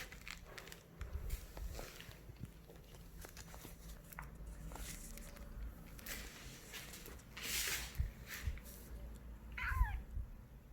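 A kitten gives one short mew that falls in pitch near the end, asking for a snack, among light rustling and small clicks.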